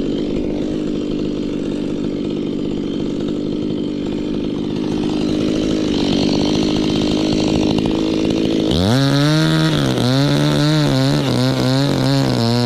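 Two-stroke chainsaw running steadily. About two-thirds of the way in the sound changes abruptly to a chainsaw whose engine pitch rises and dips again and again, as under throttle and cutting load.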